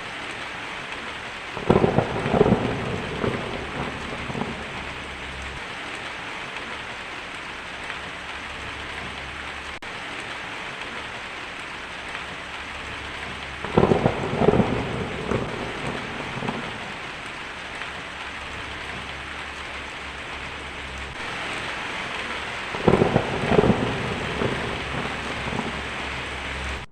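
Steady rain hissing, with three thunderclaps about 12 and 9 seconds apart, each cracking suddenly and rumbling away over a few seconds.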